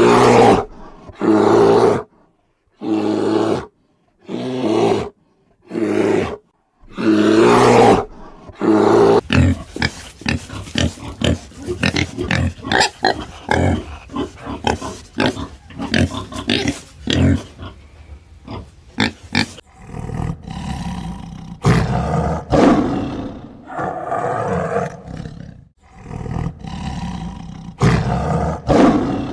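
A large animal's calls: first about six short, separate calls with pauses between them, then a fast run of short grunts, then longer rough calls near the end.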